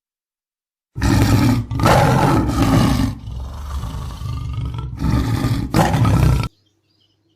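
A large animal roaring, starting about a second in. Several loud roars come with a quieter growling stretch between them, then stop abruptly near the end.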